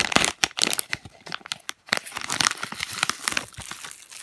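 Plastic blind-bag packaging crinkling and rustling as it is handled and pulled open by hand: a rapid run of crackles that thins out toward the end.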